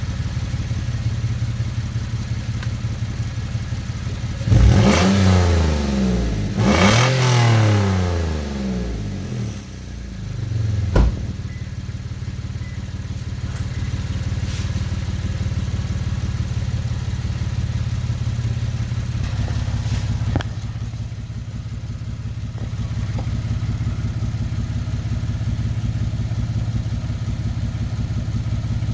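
2006 Lexus GS300's V6 engine and exhaust idling steadily, blipped twice in quick succession a few seconds in, then settling back to idle. A single sharp knock comes about eleven seconds in.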